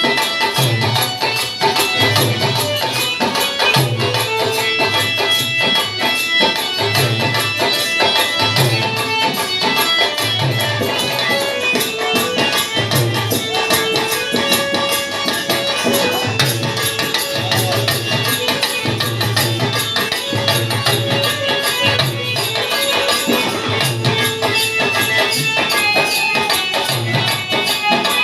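Instrumental opening music of a Bhojpuri Birha folk performance: hand drums keep a deep beat about once a second under jingling cymbal-like percussion and melodic instruments, played steadily without singing.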